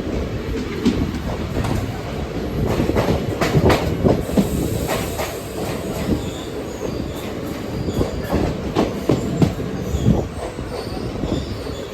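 Passenger train running on the rails: a continuous rumble of carriage wheels with irregular clanks and clatter over rail joints, and a faint wheel squeal in places.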